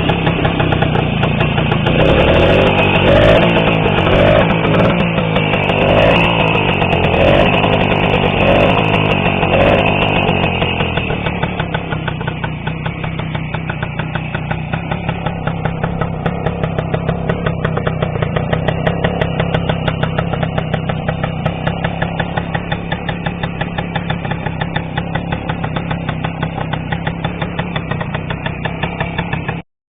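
K-58 motorcycle's small two-stroke single-cylinder engine running at higher revs for about the first ten seconds, then dropping to a steady, evenly pulsing idle.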